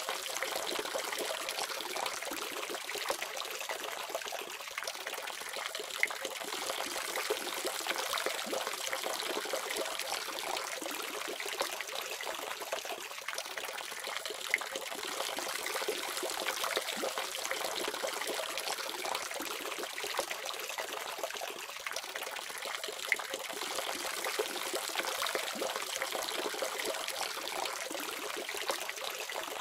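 Water tap running in a steady stream, splashing and trickling without a break.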